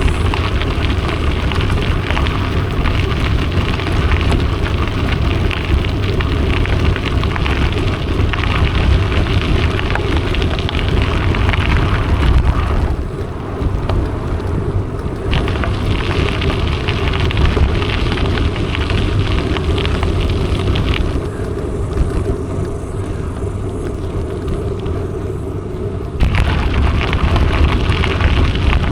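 Mountain bike ride: wind rumbling on the microphone over the steady crackling noise of the tyres rolling. The higher crackle drops away briefly about halfway through and again for several seconds near the end.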